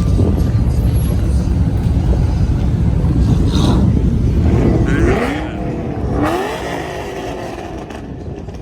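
Car engines revving and accelerating, with a heavy low rumble that falls away about five seconds in and a couple of rising revs near the middle.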